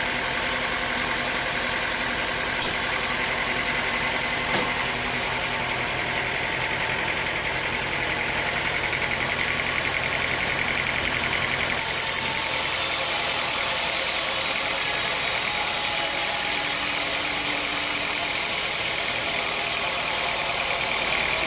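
Sawmill machinery running steadily: an engine hum under a hissing saw noise. About halfway through, the hiss suddenly gets brighter and louder.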